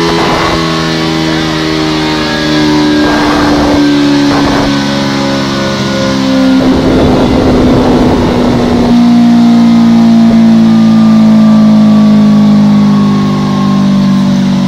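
Motorcycle engine running hard on a dynamometer, its pitch slowly falling as the revs come down, with rougher noisy stretches about a third and halfway through.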